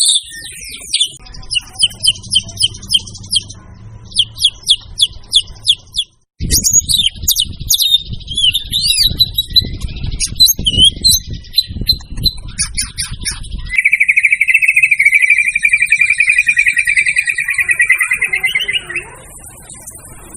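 White-rumped shama (murai batu) singing a fast, varied song: runs of quick repeated high notes and sweeping whistles, then from about 14 s a long buzzy trill held for some five seconds.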